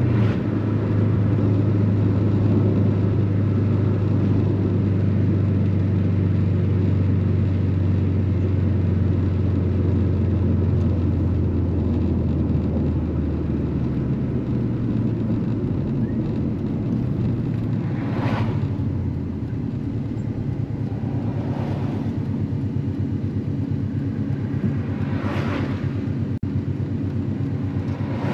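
Subaru WRX GC8's turbocharged flat-four engine running at a steady cruise with road noise. The engine note drops about halfway through as the car eases off, and three brief swells of noise come in the second half.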